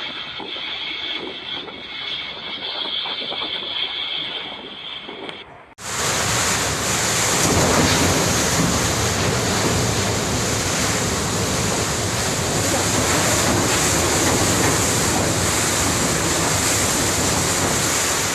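Typhoon wind and heavy rain: a steady rush of noise that cuts abruptly, about six seconds in, to a louder, even roar of wind buffeting the microphone.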